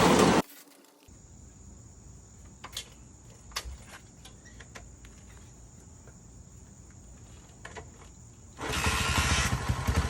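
Honda CL90's small single-cylinder engine running, then cutting off abruptly; after about eight seconds of low hum and a few faint clicks, the engine starts again near the end and runs with a low, even beat.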